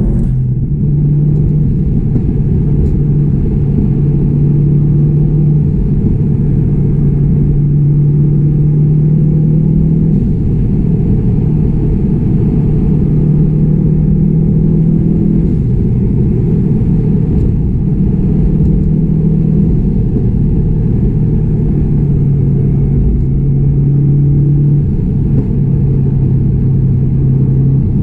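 2016 Subaru WRX STI's turbocharged 2.5-litre flat-four running under way at fairly steady revs: a loud, low drone whose pitch holds for several seconds at a time, then shifts up or down a few times.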